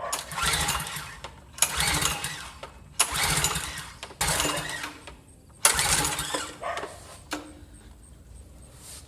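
Briggs & Stratton engine on a pressure washer being pull-started on full choke: five rapid recoil-starter pulls, about one every 1.3 seconds, cranking it over without it firing. The spark plug is loose, so the engine is not holding compression.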